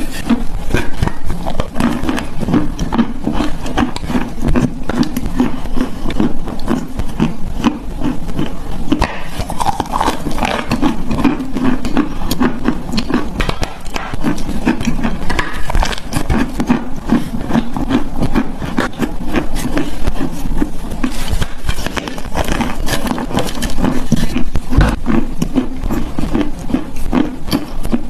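Chalk being bitten and chewed close to the microphone: a steady run of crisp crunching cracks.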